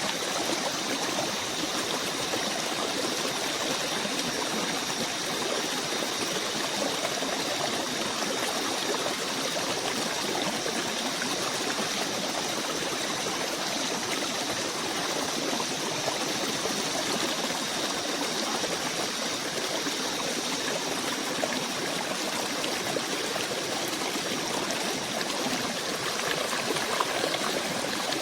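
Steady rushing and trickling of a forest stream, even and unbroken, with a faint high steady hum above it.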